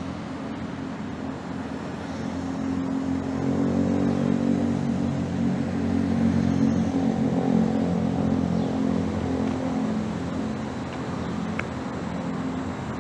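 A motor vehicle's engine running at low speed, swelling a couple of seconds in and easing off near the end, over steady outdoor background noise.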